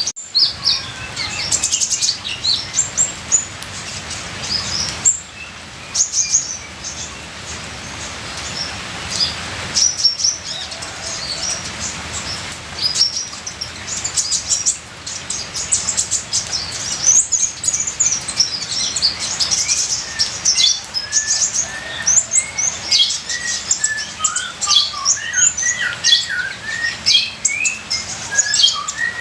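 Kolibri ninja (a sunbird) singing in rapid high chirps and twittering trills, with lower whistled notes joining in the last few seconds, over a steady hiss of trickling rain water.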